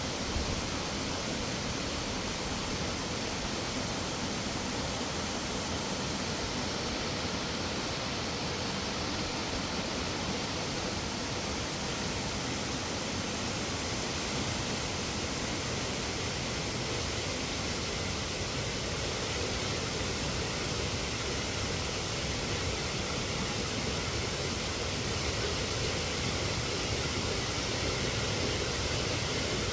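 A steady, even rushing noise, unbroken and without distinct events.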